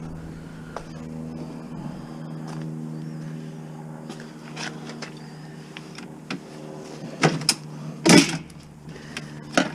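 Metal knocks and clanks from an appliance being taken apart with a screwdriver: a couple of sharp knocks about seven seconds in and a loud clank about a second later, over a steady low hum.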